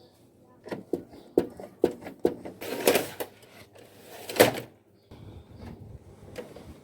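Hard plastic parts of a Canon imageRUNNER copier being handled during a repair: a quick run of clicks and knocks, then two longer sliding scrapes, the second the loudest, followed by softer rustling handling.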